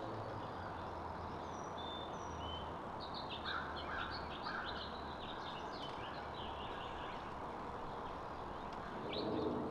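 Small songbirds at backyard feeders giving a few thin high whistles, then a quick run of short chirps, over a steady low background hum.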